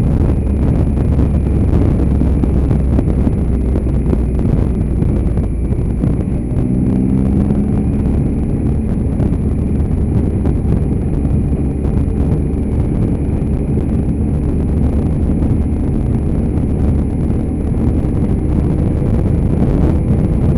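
Motorcycle engine running under way with loud wind noise buffeting the microphone; the engine note stands out for a few seconds about six seconds in.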